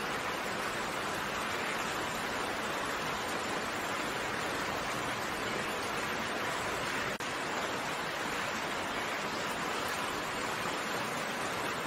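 Steady, even hiss of falling rain, with a momentary dropout about seven seconds in.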